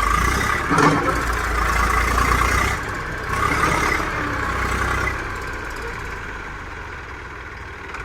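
Diesel tractor engine running steadily, growing quieter from about five seconds in.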